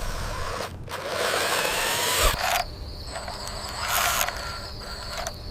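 Small electric motors and gearing of RC construction models whirring and whining, pitch rising and falling, in several short cut-together clips.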